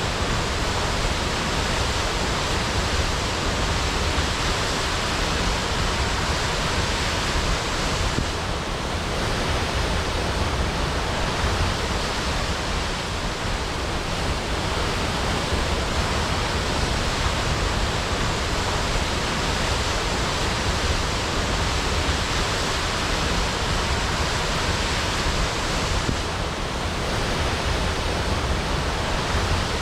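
Waterfall crashing: a steady, dense rush of falling water, even across low and high pitches.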